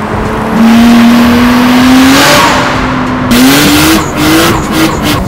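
Car engine revving hard, its pitch climbing, dropping back and climbing again several times.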